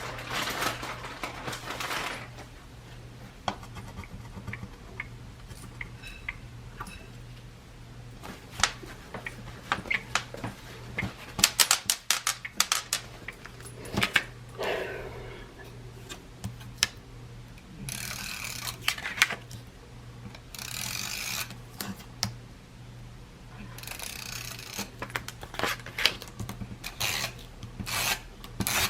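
Craft materials being handled at a work table: paper and card rubbed and brushed in short spells, with many scattered light taps and clicks. A steady low hum runs underneath.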